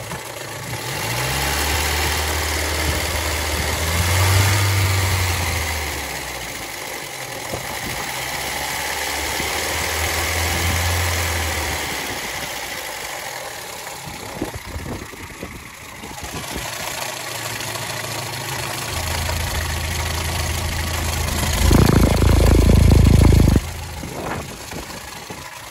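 Škoda Felicia 1.3 MPI four-cylinder petrol engine idling steadily after a head gasket replacement, running smoothly and, per the owner, better than before. Near the end, a loud burst of noise close to the microphone as the oil filler cap is pulled off.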